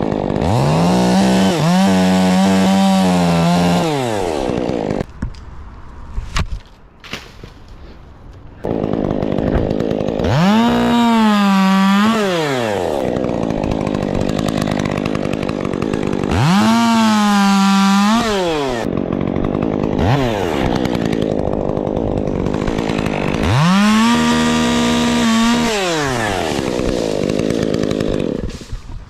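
Two-stroke chainsaw revved to full throttle four times, each time for two to three seconds before dropping back to idle, as it cuts a storm-damaged tree into pieces. The level dips for a few seconds about five seconds in.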